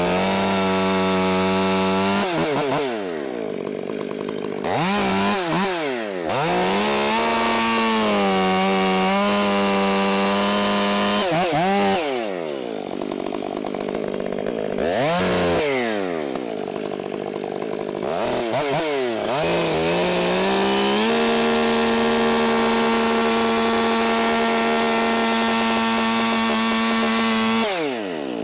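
Two-stroke chainsaw run at full throttle in several long runs, cutting wood. Between runs it drops back to idle and revs up again, once with only a brief blip. The longest and steadiest run comes in the second half.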